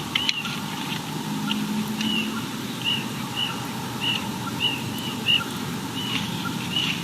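A small bird giving a run of short, thin, high chirps, about two a second, over steady background noise.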